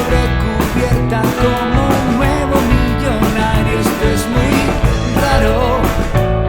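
Rock band playing an instrumental passage between verses: guitar with bending lead notes over bass and drum kit.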